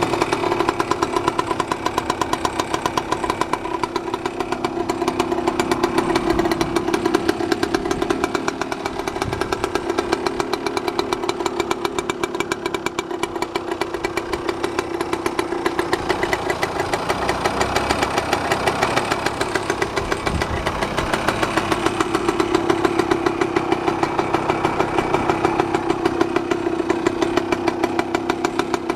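Yamaha GT50 Mini Trail's small two-stroke single-cylinder engine running steadily after start-up, with small rises and falls in speed.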